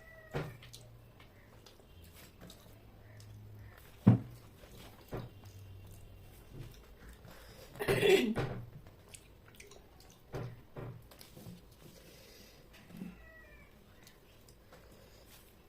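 Scattered clicks and taps of eating with the hands from a plate, the sharpest about four seconds in. About eight seconds in comes one short, wavering pitched cry.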